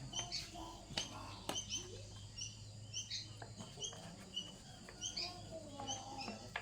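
A bird chirping: short, high, repeated chirps about twice a second, with scattered light clicks and taps.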